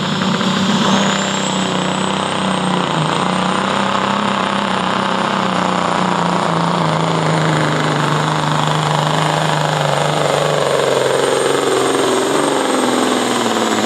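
A 1982 Kenworth semi's Caterpillar 3406 inline-six diesel under full load, pulling the sled. Its big single turbo whistles, rising in pitch over the first few seconds and then holding high. Over the last few seconds a lower engine note slides steadily down as the run winds down.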